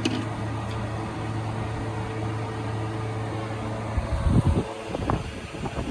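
A steady low mechanical hum. About four seconds in it gives way to irregular low thuds and rumbling.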